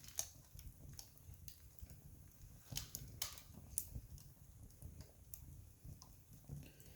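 Wood campfire crackling: scattered sharp snaps and pops at irregular intervals over a low steady rumble.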